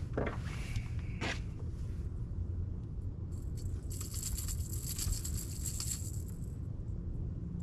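A fish and a crankbait's hooks being worked loose from a landing net: a few sharp clicks, then a few seconds of light metallic rattling and scraping, over a steady low rumble.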